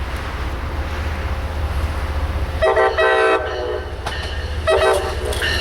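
Amtrak train's air horn sounding a longer blast followed by a short one, over the steady low rumble of the approaching train.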